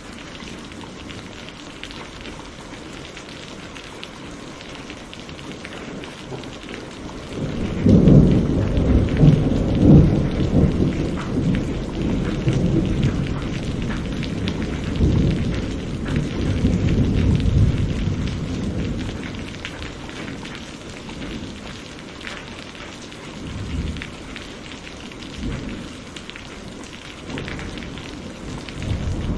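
Steady rain falling, with a long rolling peal of thunder that breaks about eight seconds in. It is loudest in its first couple of seconds, then rumbles on and fades over about ten seconds. A few fainter rumbles follow near the end.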